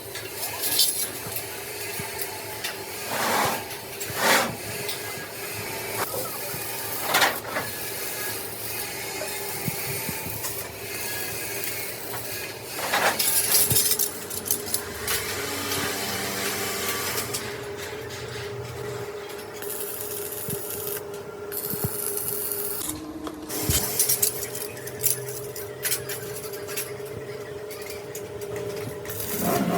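Metalworking sounds: repeated scraping and rubbing of a hand tool on steel, with a few short loud strokes and knocks over a steady machine hum.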